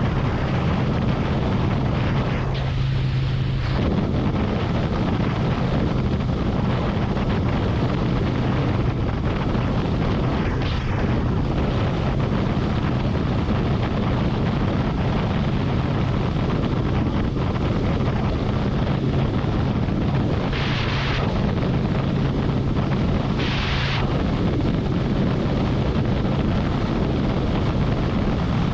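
Harley-Davidson Road Glide motorcycle running steadily at highway speed, its engine a low drone under heavy wind rush on the microphone. Two brief hissing swells come about twenty and twenty-three seconds in.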